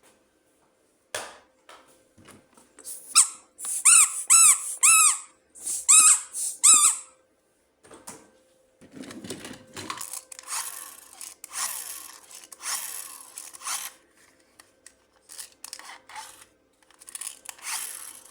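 Toy unboxing handling: a quick series of about six short, high squeaky chirps, then rustling and crinkling of plastic packaging.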